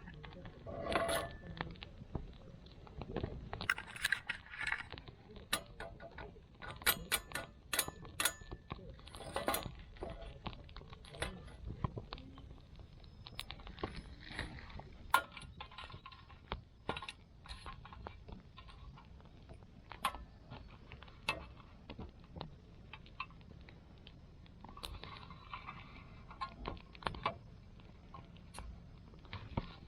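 Irregular light clicks, clinks and knocks, scattered at uneven intervals with short pauses between them.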